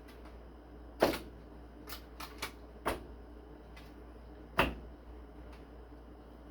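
Handling meat and racks at the smoker: a few sharp knocks and clicks, the loudest about a second in and another just past the middle, with lighter taps between.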